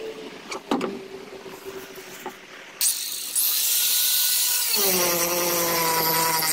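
A power grinder starts a few seconds in with a sudden loud grinding hiss on fiberglass. Its motor tone dips slightly and then holds steady as it works the surface. A few light knocks come before it.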